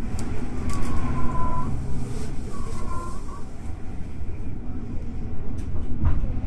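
Electric commuter train running, heard from inside the front car: a steady low rumble with a faint hum, two brief high tones about one and three seconds in, and a single thump near the end.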